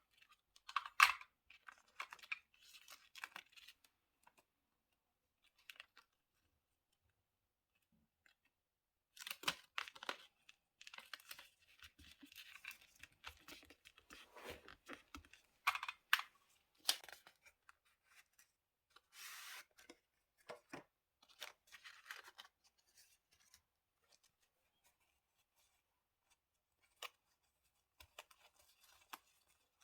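Paper crafting at a desk: paper and stickers being handled, torn and rustled, with short taps and clicks, in uneven bursts separated by quiet pauses.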